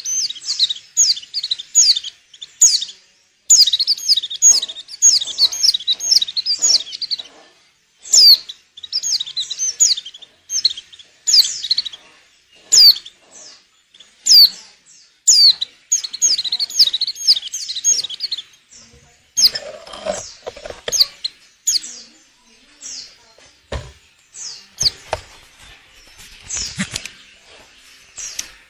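Female pleci (white-eye) in breeding condition calling in rapid runs of thin, high chirps, the call bird keepers use to set males singing and to lure them. The runs thin out in the second half, where a few sharp knocks are heard.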